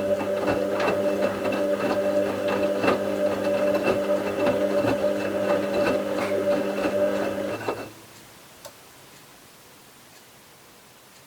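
Bauknecht WA 7778 W washing machine's motor turning the drum during the wash: a steady hum with many clicks and knocks, which stops abruptly about eight seconds in. The machine's drum bearing, by the owner's account, was already beginning to fail.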